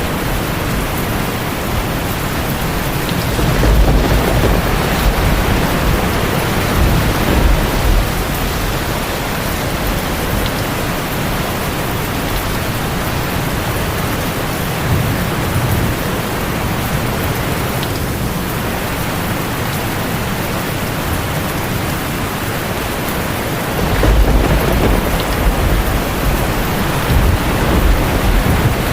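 Heavy rain drumming steadily on a tin roof, with low rolling thunder swelling twice: about three seconds in and again near the end.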